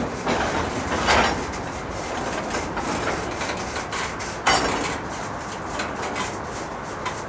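Freight train boxcars rolling slowly past: a steady rumble of steel wheels on rail, with a few sharper clanks, the loudest about a second in and again about four and a half seconds in.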